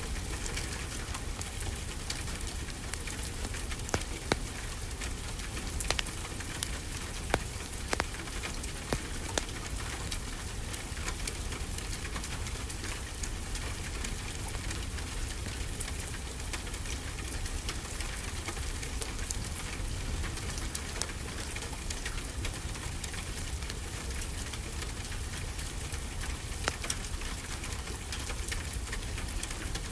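Steady rainfall with a crackling wood fire, its sharp pops scattered through the rain, several of them a few seconds in and a couple more near the end.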